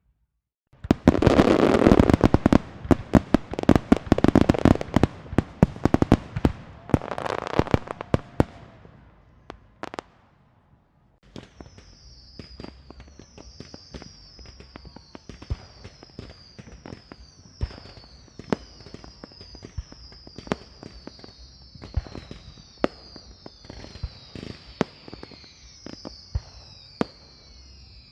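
A rapid string of firecrackers going off, dense loud bangs for about seven seconds before trailing off. After a brief pause, a quieter stretch of scattered pops and cracks with many overlapping short falling whistles from whistling fireworks.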